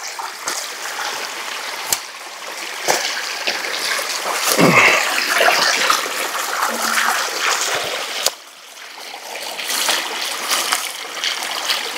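Creek water trickling and running steadily, with splashes and a few sharp knocks as someone moves through it.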